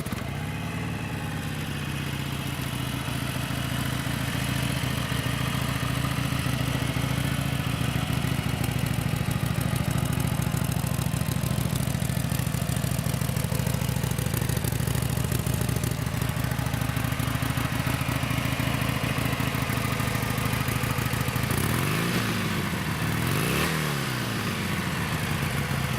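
Harley-Davidson Sportster 883 Iron's 883cc fuel-injected V-twin starting up and idling steadily. Near the end the throttle is blipped twice, the pitch rising and falling each time, before it drops back to idle.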